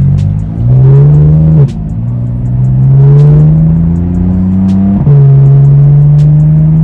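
Car engine accelerating, a loud steady drone that climbs slowly in pitch and drops sharply twice, about 1.7 s and 5 s in, as the car changes gear.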